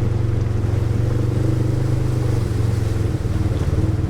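Polaris side-by-side UTV engine running at a steady pitch, with a brief dip about three seconds in.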